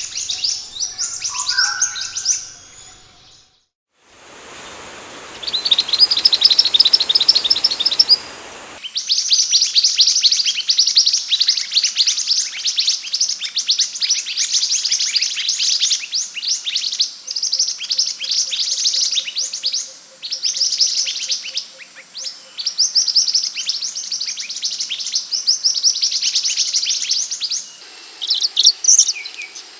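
Scarlet minivet (sepah hutan) calling in long bouts of rapid, high, downward-sweeping notes. Near the start the recording cuts, and a short stretch of trills over a hiss follows before the dense calling resumes.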